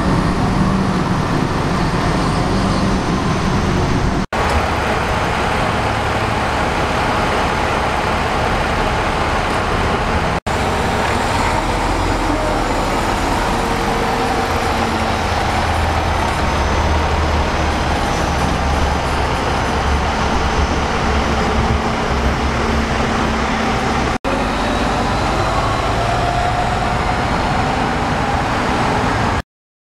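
Steady engine and street noise of vehicles running, broken by three brief dropouts where the footage is cut, and stopping abruptly just before the end.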